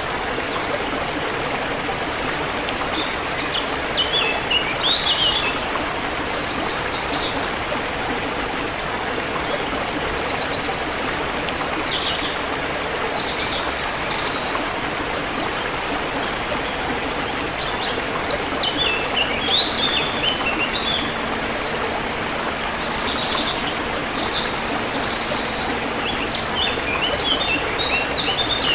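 Forest river water flowing steadily, with small birds chirping in scattered clusters of short, high notes, busiest in the second half.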